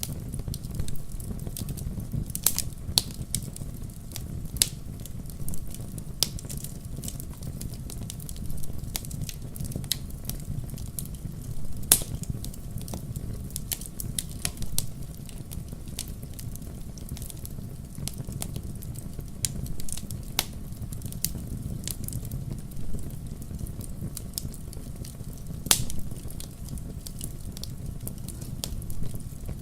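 Wood fire crackling in a fireplace: a steady low rumble of flame with irregular sharp pops and snaps, the loudest about twelve seconds in.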